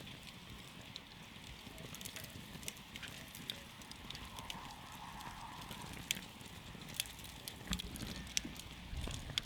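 Campfire crackling: irregular sharp pops and snaps of burning wood over the low, steady rush of the flames.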